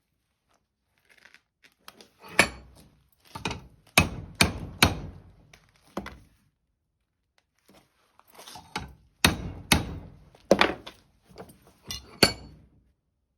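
A series of hard knocks, a dozen or so blows in two groups a few seconds apart, some single and some in quick pairs, typical of parts being struck or hammered during a build.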